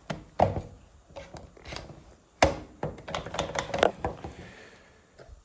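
Irregular sharp knocks and clatter of tools being handled against wood, about half a dozen hits, the loudest about two and a half seconds in.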